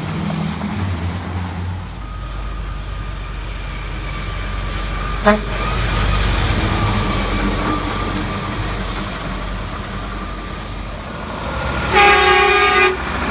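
Heavy truck engine rumbling past, then a single air-horn blast about a second long near the end.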